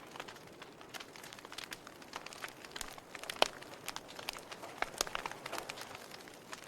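Wood fire crackling in a fireplace: irregular sharp pops and snaps over a soft hiss, with one louder pop about three and a half seconds in.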